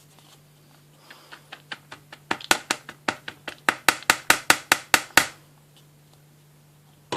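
A run of quick sharp taps, about four or five a second, building up and then stopping after a few seconds. It is a container or spoon being knocked to tip brown rice out onto kitchen scales.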